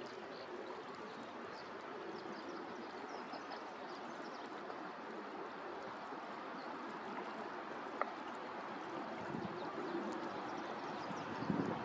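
Steady rush of flowing stream water, with faint high chirps from small birds scattered through it and a single click about eight seconds in.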